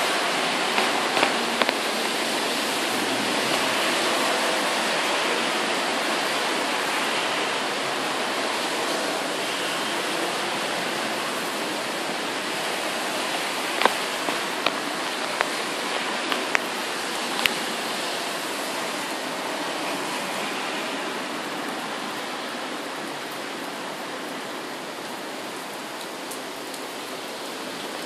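Heavy thunderstorm rain falling steadily, a dense even hiss. A few sharp ticks of drops hitting something close come in a cluster just after the start and again about halfway through. The downpour eases a little toward the end.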